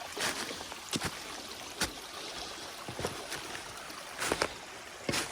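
Footsteps along a shallow rocky creek, about one step a second, over the steady running of the stream.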